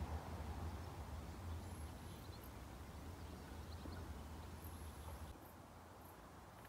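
Quiet outdoor ambience: a steady low rumble that cuts off abruptly about five seconds in, with a few faint bird chirps.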